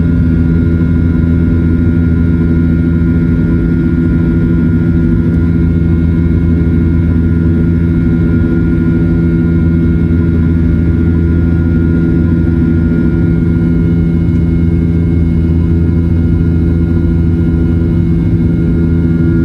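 Boeing 737-800 in flight, heard from inside the passenger cabin: the steady drone of its CFM56 turbofan engines and the airflow, with several steady tones held throughout.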